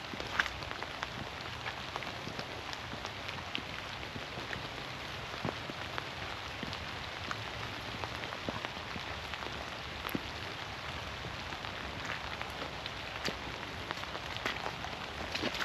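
Steady rain falling in a forest, an even patter with scattered sharper drop ticks.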